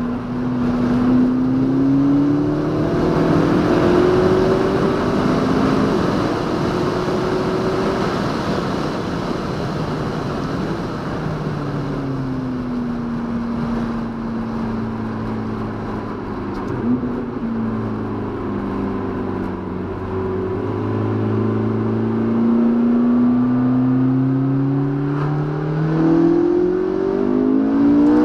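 McLaren MP4-12C's twin-turbo V8 through its sports exhaust, heard from inside the cabin while driving. The engine note rises and falls several times as the car accelerates and eases off, over steady road noise.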